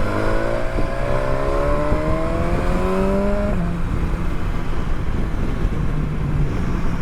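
Motorcycle engine accelerating hard, its pitch climbing for about three and a half seconds before dropping at a gear change and running on steadily, under heavy wind rush.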